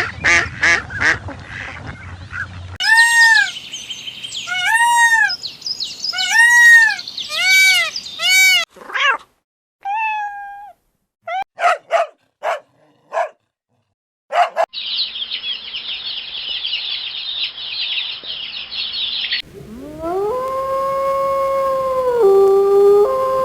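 A string of different animal calls, one after another. Quacking for the first few seconds, then a run of repeated arched bird calls, several short sharp calls, a steady high hiss lasting about five seconds, and finally a canine howling in long held notes that start near the end.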